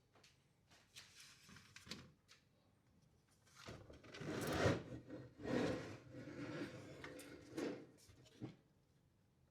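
Parts of a UPS being handled during a teardown: light clicks, then a few seconds of rubbing and scraping with some knocks, ending in one sharp knock.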